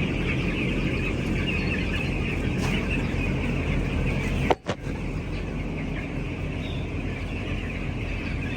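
A flock of broiler chickens cheeping and chirping continuously over a steady low hum. The sound cuts out briefly about halfway through.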